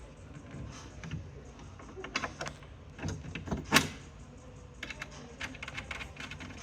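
Small clicks and knocks of bed-frame parts and hardware being handled, with one sharper knock just under four seconds in and a quick run of light clicks near the end.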